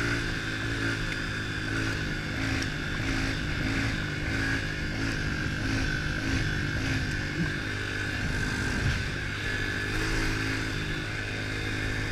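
Single-cylinder four-stroke 110 cc pitbike engine running under way at a fairly steady speed, its pitch wavering a little.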